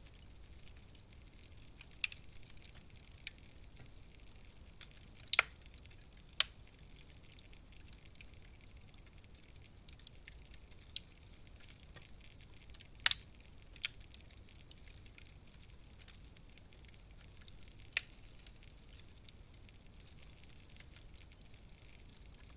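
Wood fire in a fireplace crackling: a faint low hiss broken by scattered sharp pops and snaps, a few of them much louder than the rest.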